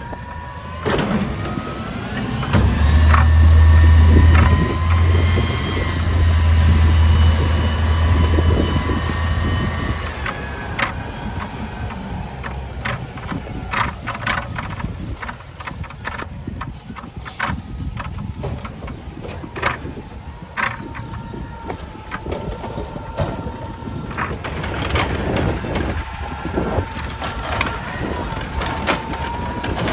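Garbage truck at work: its engine speeds up for several seconds with a rising whine, which a knowledgeable listener would take for the hydraulic pump driving the lift and packer. The engine then drops back while the whine carries on. Short knocks and clanks are heard throughout.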